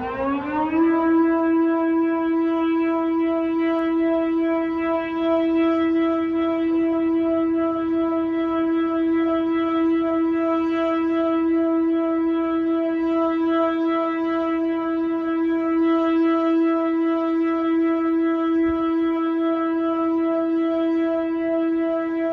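Siren winding up in pitch over about the first second, then holding one steady tone.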